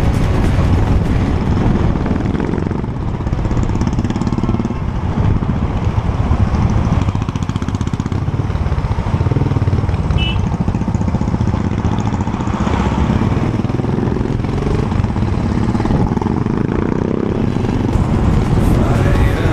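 Motorcycle engine running steadily at riding speed, heard from the moving bike with a rush of wind over it.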